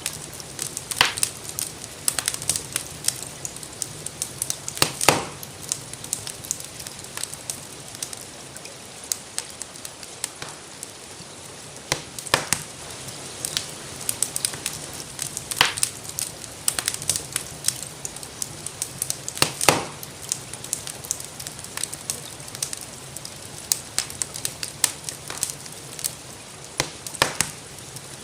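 Wood fire crackling, with irregular sharp pops and snaps, a few of them louder, over a steady soft hiss of gentle rain.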